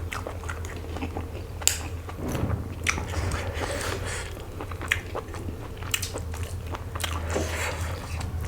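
Close-miked eating of chicken curry with rice: chewing and mouth sounds with scattered short crunches and clicks, a sharp one about two seconds in, over a steady low hum.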